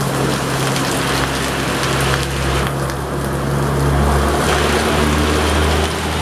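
Heavy diesel truck engine running steadily under load on an uphill grade, with the steady hiss of rain over it.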